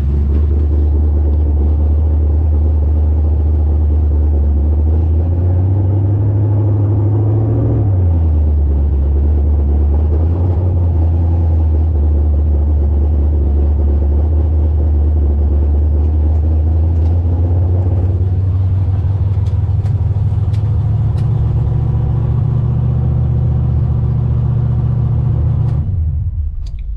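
Engine of a 1984 Fox Body Mustang drag car, fed by an oversized 878 CFM carburetor, running at low speed: its pitch rises a few seconds in, drops back, then holds steady. It shuts off about a second before the end.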